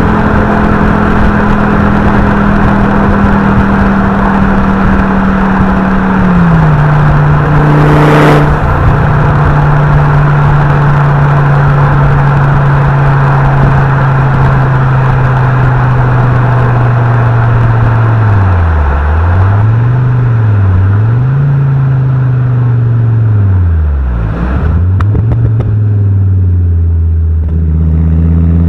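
Fiat Coupe 20V Turbo's inline five-cylinder turbo engine and exhaust on the move. The engine holds steady revs, drops to a lower steady pitch, then dips and climbs several times as it goes through the revs. A short sharp noise comes about eight seconds in.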